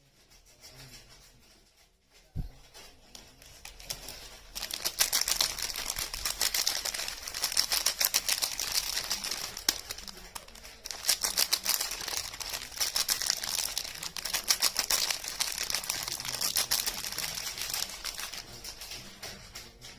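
Soap wrapping being crinkled and torn open by hand, a dense crackle that starts about four seconds in after a single soft knock, with a brief pause midway.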